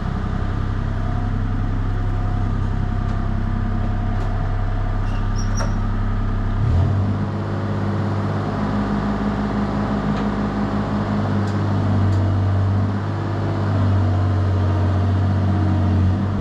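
An engine running steadily with a low hum, its note shifting about seven seconds in and easing briefly later on.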